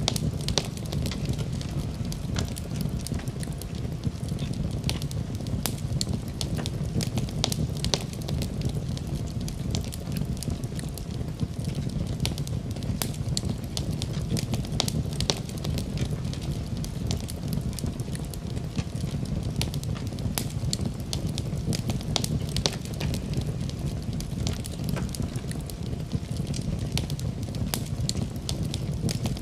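Fire burning in a fireplace, with a steady low rumble and frequent, irregular sharp crackles and pops.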